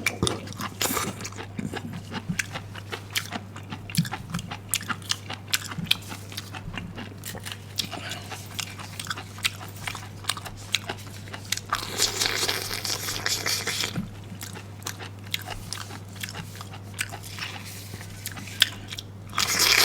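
Crunchy biting and chewing of hand-peeled bamboo shoots in chili oil: a long run of short, sharp crunches close to the microphone.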